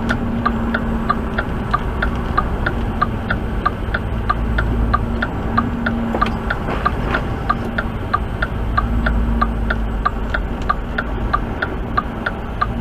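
Truck's turn-signal flasher clicking steadily, about three clicks a second, over the steady low rumble of the engine and road inside the cab.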